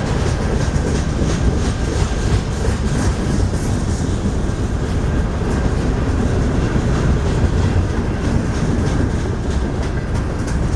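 BNSF manifest freight train rolling past at close range, its wheels clicking steadily over the rail joints under a constant heavy rumble.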